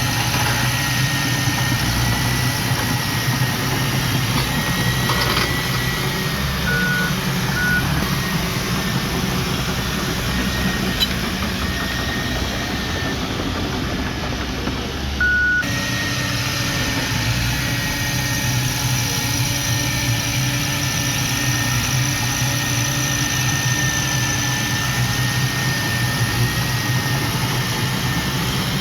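Heavy diesel earthmoving machinery running steadily, with a faint whine, and three short beeps: two close together about seven seconds in and one about halfway through.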